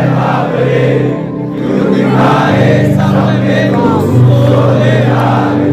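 Live concert music: held low chords that change every second or two, with singing over them and a crowd singing along.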